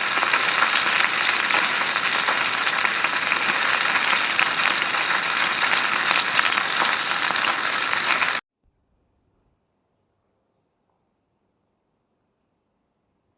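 Food frying hard over a campfire: a loud, dense sizzle with fine crackles that cuts off suddenly about eight seconds in. After the cut a faint, steady, high insect hiss remains, like crickets, and fades out near the end.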